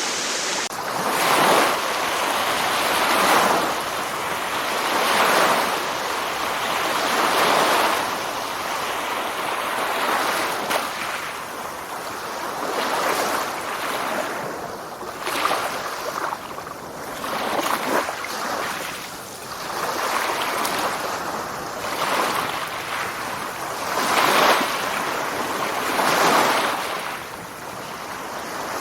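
Ocean surf: waves washing in and drawing back, a rushing hiss that swells and fades every two seconds or so.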